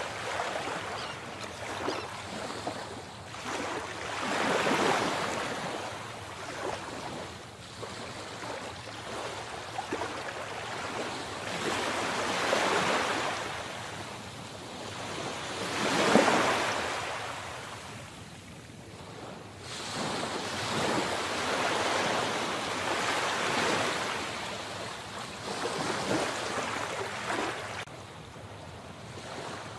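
Sea waves breaking and washing up the shore, swelling and falling away every few seconds, with the loudest surge about halfway through.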